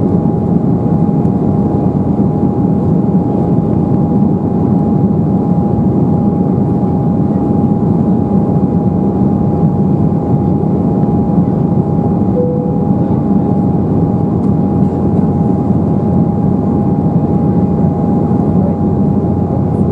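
Steady cabin noise of an Embraer 190 airliner from a seat near the wing: an even engine rumble with a thin steady whine over it.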